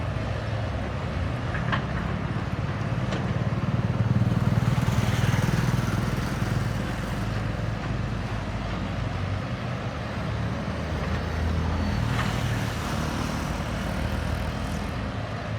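JCB backhoe loader's diesel engine running steadily under working load, swelling louder for a couple of seconds about four seconds in and again briefly near twelve seconds.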